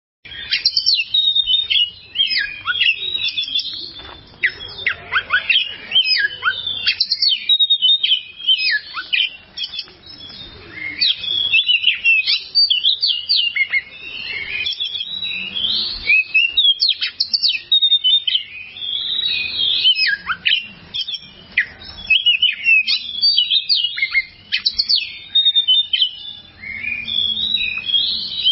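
Oriental magpie-robin (kacer) singing a long, varied song of rapid chirps, whistles and trills, broken by a few brief pauses.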